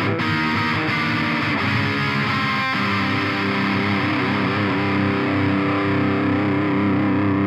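Electric guitar played through an Eagletone Biyang OTD 100 distortion pedal with a 12AX7 tube, giving a distorted tone. A few quick notes, then a chord struck a little under three seconds in and left to ring out steadily.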